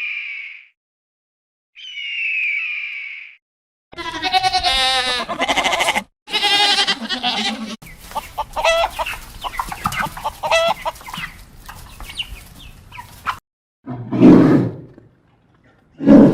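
A string of short animal-call clips cut one after another: two high, falling calls, then a rooster crowing and chickens clucking for several seconds, then two short low calls near the end.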